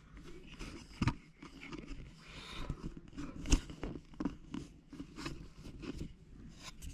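Handling noise: irregular clicks, taps and rustling close to the microphone, with one sharper click about three and a half seconds in.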